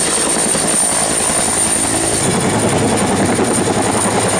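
Helicopter flying: a fast, even rotor chop under a steady high whine.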